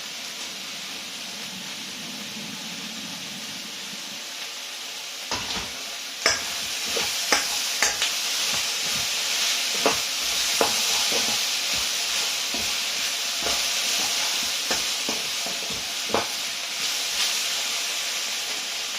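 Chicken, onions and bell peppers sizzling in a pan over lowered heat. About five seconds in, the sizzle grows louder and a utensil starts clanking and scraping against the pan as the food is stirred.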